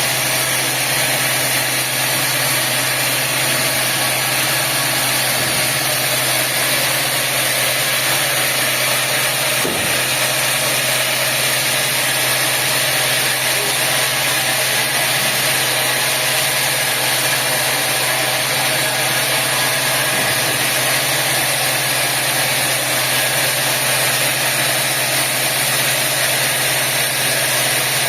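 Sawmill machinery running steadily with an engine hum under an even hiss, with no change in pitch or load.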